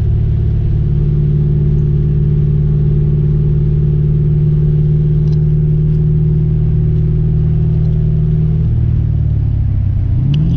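Ford Mustang GT's 4.6-litre two-valve V8 pulling under load, its pitch climbing slowly and steadily. About nine seconds in the note drops off, then it revs sharply back up near the end.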